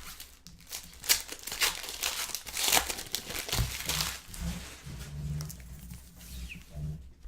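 Foil trading-card pack wrappers crinkling and tearing in irregular rustles as basketball card packs are ripped open and handled.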